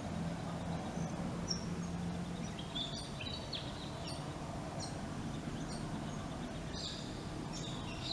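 Small birds chirping in short, scattered calls over steady outdoor background noise with a low hum.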